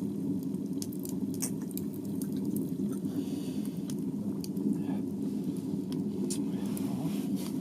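Small wood-burning tent stove running with a steady low drone and scattered light crackles from the fire, with faint wet sipping sounds of a drink being tasted.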